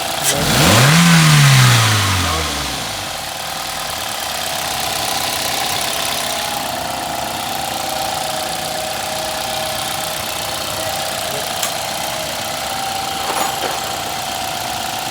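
Toyota Altis engine revved once: the revs climb about a second in and sink back down over the next two seconds, then it idles steadily. The engine is running with a newly fitted engine timing adjuster, the repair for its sound problem.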